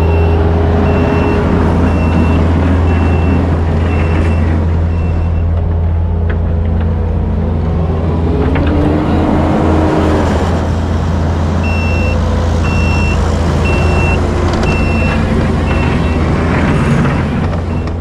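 Truck engine running with a steady low drone while a backup alarm beeps at a little over one beep a second, in two spells: at the start and again about twelve seconds in. About eight seconds in, the engine revs up and settles back.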